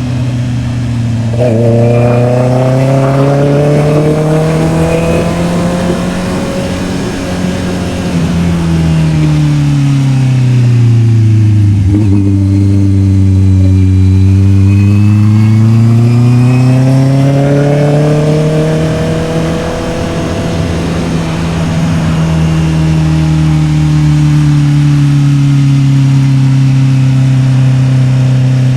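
Honda CB650R's inline-four engine pulling through the gears on the road. Its pitch climbs over the first few seconds, drops back about eight to twelve seconds in, climbs again, eases a little around twenty seconds, then holds steady at a cruise for the last several seconds.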